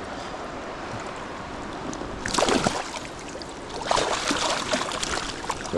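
Steady rush of a flowing river. Two bursts of crackling noise come over it, a short one a little past two seconds in and a longer one from about four seconds in.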